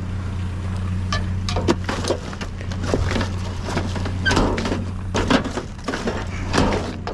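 Irregular clattering and knocking of junk being handled and shifted in a dumpster while a monitor stand is dug out, over the steady low hum of an idling engine.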